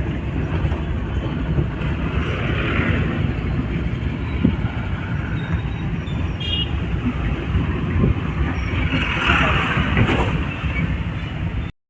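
Steady engine and road noise of a car being driven, as heard inside the cabin; the sound cuts off suddenly near the end.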